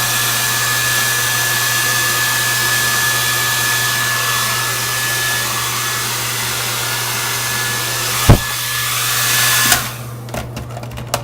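Handheld hair dryer running steadily, a loud airy rush with a thin steady whine. About eight seconds in there is a sharp knock. Near the end the dryer is switched off and cuts out suddenly, leaving a few small clicks.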